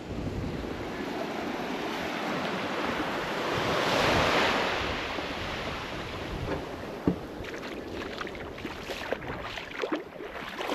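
Small waves washing onto the beach, one swelling to its loudest about four seconds in, with wind on the microphone; a few short sharp sounds near the end.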